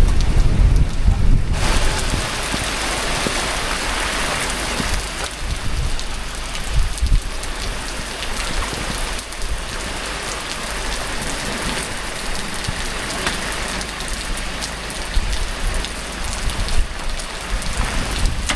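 Heavy rain pouring down steadily in a dense hiss. A low wind rumble comes first, and the rain cuts in abruptly about a second and a half in.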